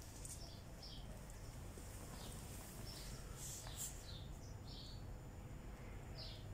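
Small birds chirping, many short high calls scattered throughout, over a faint steady low hum.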